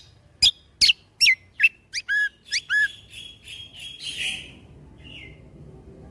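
Kecial kombo (cucak kombo) songbird singing a run of loud, sharp whistled notes, each sweeping down in pitch, about two a second, coming faster around two seconds in. The run ends in a brief buzzy trill near four seconds, followed by one faint note.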